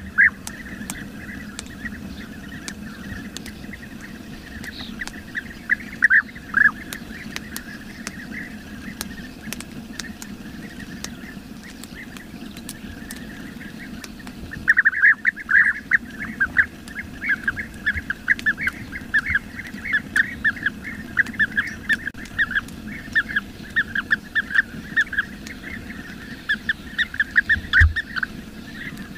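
Bee-eaters calling: a few separate rolling calls, then from about halfway a near-continuous run of quick, repeated calls.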